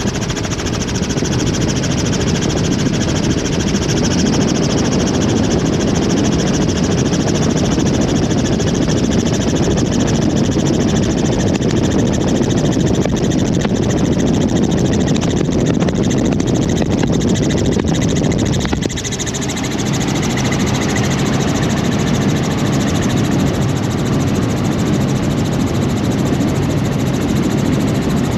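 Helicopter in flight heard from on board: loud, steady engine and rotor noise, dipping briefly about two-thirds of the way through.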